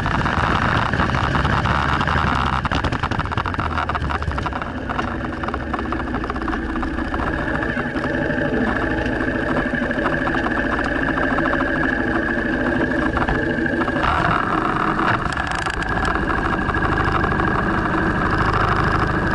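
Honda CRF230 dirt bike's single-cylinder four-stroke engine running on a ride, with the throttle changing. It eases to lower, steadier revs for several seconds and picks up again about two-thirds of the way through.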